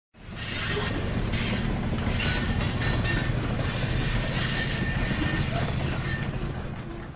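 Train running on rails: a steady low rumble with thin, high wheel squeal, starting suddenly and fading out near the end.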